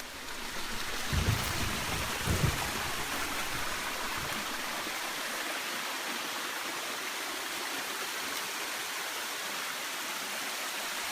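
Steady rushing of flowing water, building over the first second and then holding even. Two dull low thumps about a second and two and a half seconds in.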